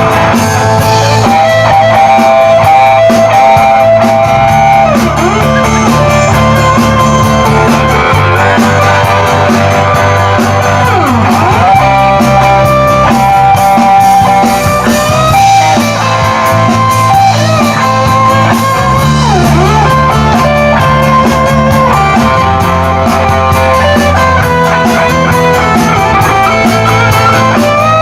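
Live rock band playing an instrumental passage without vocals: an electric guitar lead with bent notes over bass guitar and drums.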